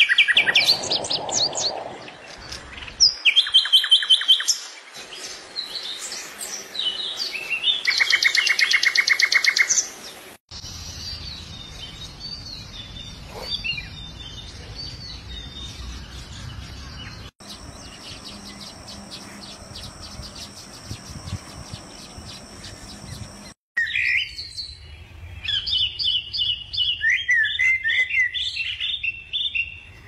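Birds chirping and calling in a string of short clips that change abruptly. Loud, rapid trilled notes fill the first ten seconds, followed by softer scattered chirps over a steady background noise, and loud repeated calls return in the last quarter.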